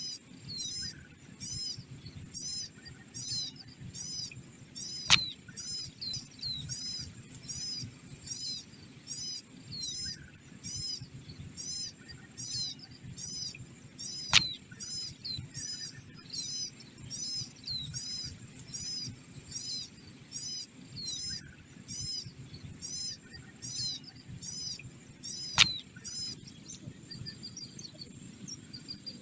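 A small bird chirping over and over, about two short arched chirps a second, with a faint steady high insect buzz. Three sharp clicks, the loudest sounds, come about nine to eleven seconds apart.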